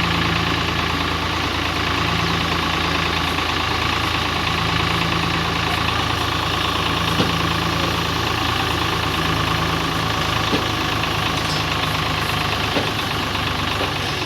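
Tractor engine idling steadily, with a few sharp ticks heard about halfway through and near the end.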